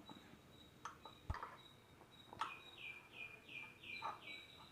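A bird calling faintly, a run of about five quick notes in a row, each falling in pitch, with a few soft clicks before it.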